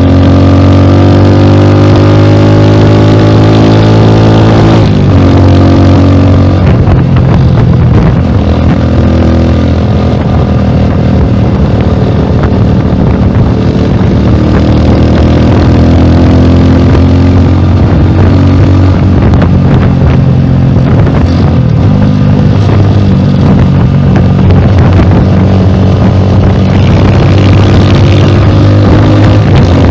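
Rusi Classic 250 motorcycle engine running through a bullet-pipe muffler on the stock header elbow. The revs fall over the first few seconds, hold fairly steady, then rise again near the end.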